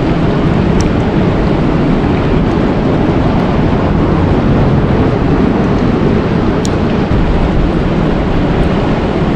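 Steady, loud, low rushing noise of an outdoor nature soundscape, such as moving water or wind, with a couple of faint, short, high sounds about a second in and again near the end.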